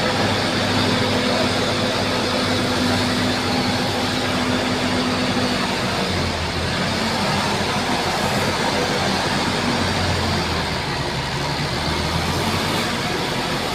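Bulldozer's diesel engine running steadily, its pitch shifting about six seconds in as the load changes.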